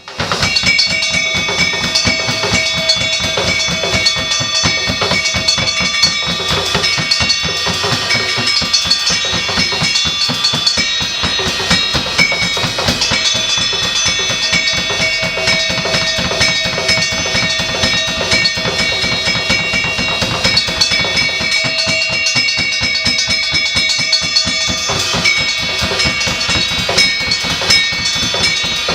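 Experimental solo percussion: a drum kit played in a dense, fast, unbroken flurry of strokes, with several steady ringing tones held over it.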